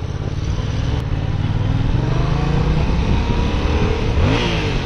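Motorcycle engine accelerating, its pitch climbing steadily, then dropping and climbing again about four seconds in.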